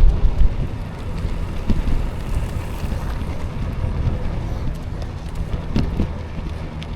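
Wind buffeting the microphone of a camera on a moving e-bike, a heavy low rumble that eases after about a second, with a couple of sharp clicks near the end.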